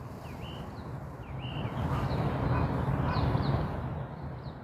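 A small bird chirps short, high, sweeping notes about once a second, while a passing vehicle's rumble swells up and fades away in the middle.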